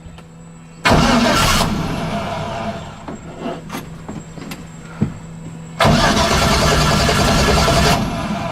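An LS1 V8 in a BMW E30, on a new exhaust, cranks and fires twice. Each time it bursts into life for a couple of seconds and then fades and dies. It is starved of fuel because the tank has run dry.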